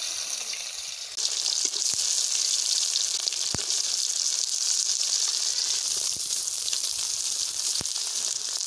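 Pieces of steamed egg-and-radish cake sizzling in hot oil in a large kadai, the sizzle jumping up about a second in as they go into the pan. A metal spatula taps against the pan a few times.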